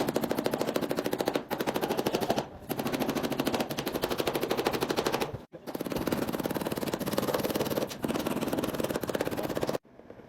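A power tool rattling with a very fast, even hammering in long bursts, broken by brief pauses a couple of times, then cutting off sharply just before the end.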